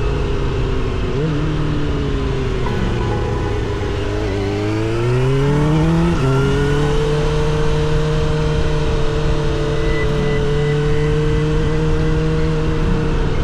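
Suzuki GSX-R750 SRAD inline-four running through a Yoshimura R77 exhaust while riding. The engine note eases off for a few seconds, then climbs hard under acceleration, drops sharply at an upshift about six seconds in, and settles into a steady cruise.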